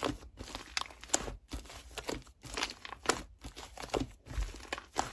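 Slime being squeezed and worked by hand, a continual run of short sticky crackles and pops, several each second.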